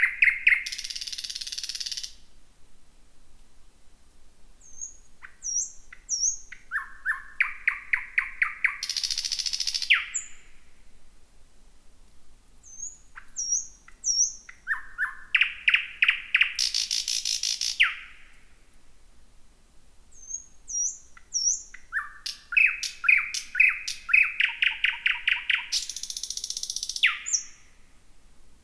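Thrush nightingale singing: about four loud phrases, each a fast run of repeated piping notes that ends in a harsh, rattling buzz. Soft, short high notes fill the pauses between phrases.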